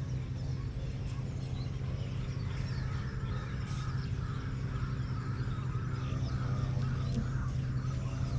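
Birds calling with short chirps, some with a cawing quality, over a steady low hum.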